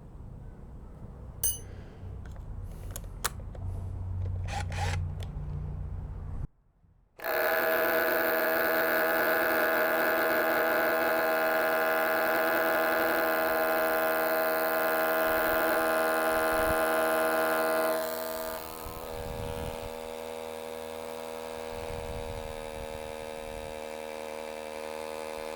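SDS rotary hammer drilling into timber with a four-cutter SDS bit. A few clicks and knocks of handling come first. The drill starts about seven seconds in and runs with a steady, many-toned whine, becoming quieter about eighteen seconds in and running on.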